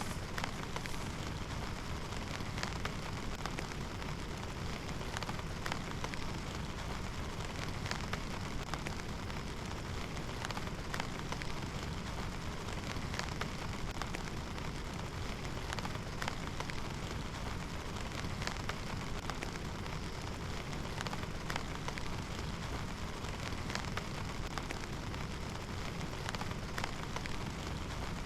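Heavy rain falling steadily, with scattered sharper drops striking close by.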